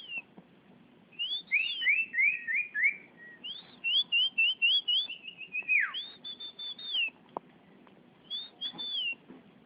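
A songbird called sirpooh in Indonesian, singing four phrases of quick, clear whistled notes with short pauses between them. One phrase steps down in pitch and another ends in a long falling slur.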